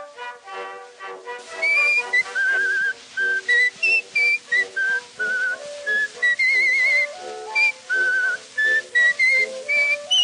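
A whistled melody with a wavering vibrato on its held notes, over instrumental accompaniment. A few instrument notes open it, and the whistling comes in about a second and a half in.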